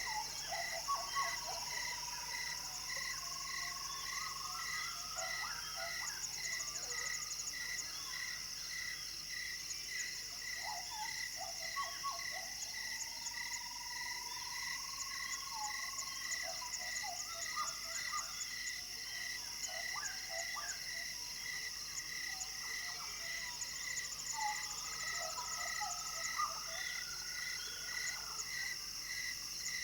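Evening chorus of frogs and insects: a steady high insect buzz, a note pulsing about one and a half times a second, and scattered short croaking calls. Three times, a long whistled call rises and holds for two or three seconds.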